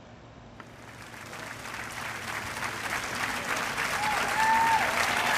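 A crowd clapping, building steadily louder, with a few cheering whoops about four seconds in.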